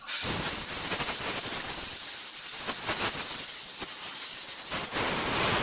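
Pressurised jet from a detailing tool hissing loudly and steadily. It starts abruptly and surges unevenly in strength.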